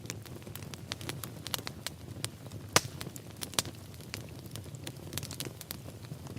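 Wood fire burning in a fireplace: a low steady rumble of flames with irregular crackles and pops, one sharper pop a little under three seconds in.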